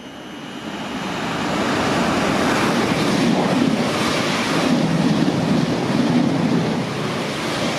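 Electric passenger train passing the platform at speed: a steady rush of wheels on rail and air that builds over the first two seconds and then holds loud.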